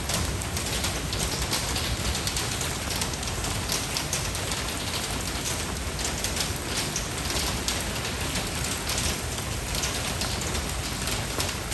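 Steady rain falling: a continuous hiss made up of many small, dense drop patters, at an even level throughout.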